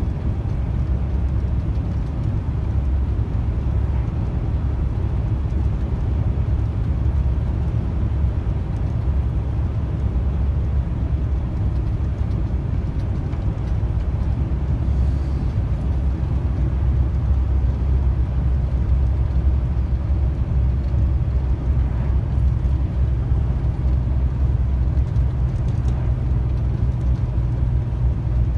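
Steady low drone of a heavy truck's engine and road noise, heard from inside the cab while driving.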